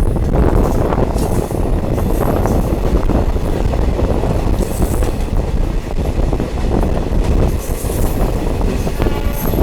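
Diesel multiple unit train running along the track: a loud, steady rumble of wheels and engine, with brief high-pitched wheel squeals several times.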